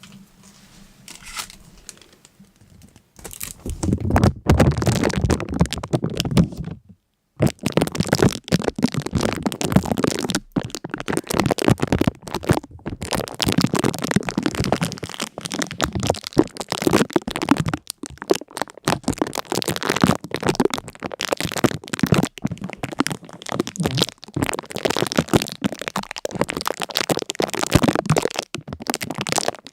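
Dense crackling and crinkling, made of many small sharp clicks in quick succession, starting about three seconds in and breaking off briefly near seven seconds.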